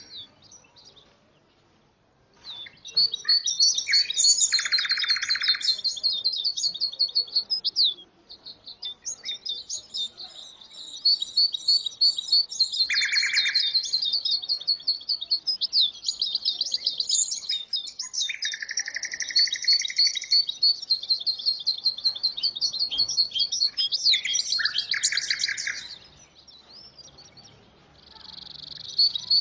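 Songbirds singing in long, rapid twittering phrases, with short buzzy lower notes in between and a few brief pauses.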